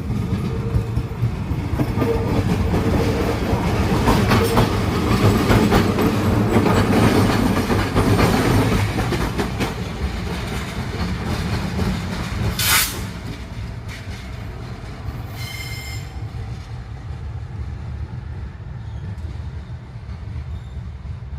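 Train running past with a heavy low rumble and wheels clicking over the rail joints, loudest in the first half and then easing off. About thirteen seconds in there is a brief sharp hiss, and a short high ringing squeal follows a few seconds later.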